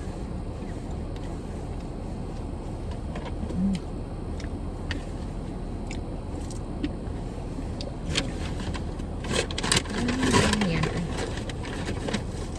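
A steady low rumble with scattered small clicks and rustles of things being handled, and a louder burst of clatter and rustling about ten seconds in.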